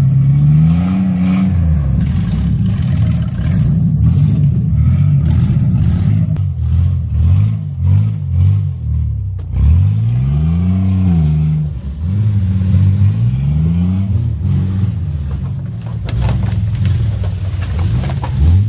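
A car engine under hard throttle, its pitch rising and falling several times as it is revved and let back, with rattling and knocks in between.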